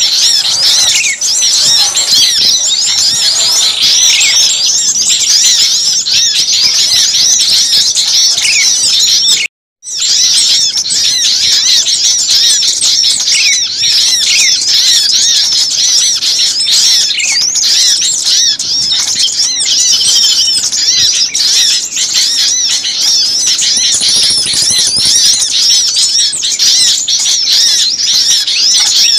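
Bird-lure recording: a dense chorus of many small songbirds chirping, trilling and calling excitedly over one another. The chorus cuts out completely for a moment about ten seconds in, then carries on.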